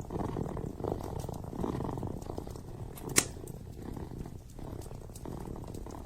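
Kitten purring steadily, the purr swelling and easing in breath-paced cycles, with light crackles from a wood fire and one sharp pop about three seconds in.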